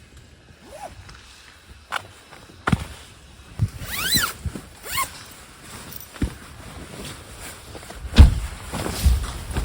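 Camping gear being handled and packed away: scattered knocks and thumps, the loudest about eight seconds in, with a short squeaking sweep about four seconds in.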